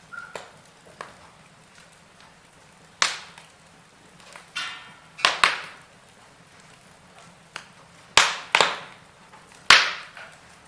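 Wood fire in a fireplace crackling, with a faint hiss under it and several sharp pops of burning logs, six of them loud and spread through the middle and second half.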